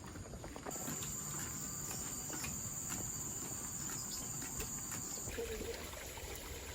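An insect's steady high-pitched buzz, typical of forest cicadas or crickets, starts abruptly about a second in and cuts off suddenly after about four and a half seconds.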